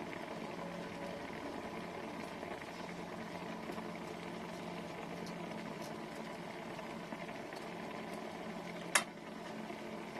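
Handheld travel steamer running with a steady hiss and a low hum, with one sharp click near the end.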